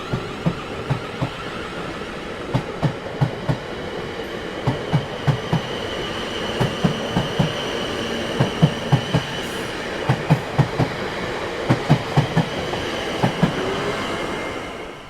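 Train rolling past, its wheels clacking over rail joints in quick groups of two to four knocks, over a steady rolling rumble with a faint high whine.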